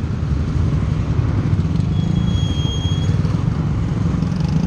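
Motorcycle engines running at idle, a loud, steady low rumble.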